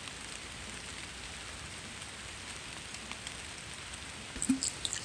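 Steady hiss of light rain falling, with a few short taps near the end.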